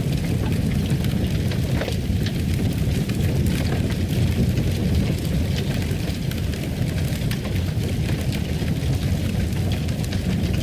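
Log fire burning, with a steady low roar and frequent small crackles and pops.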